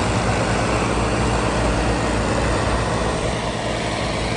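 Tractor engine running steadily, a low even drone without revving.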